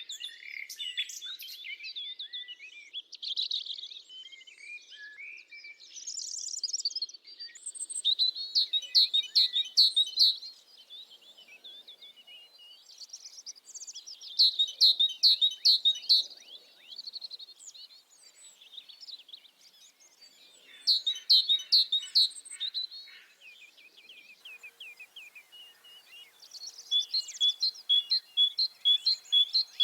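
Forest songbirds singing: a short phrase of quick, high repeated notes comes back every five or six seconds, with scattered chirps and calls from other birds between.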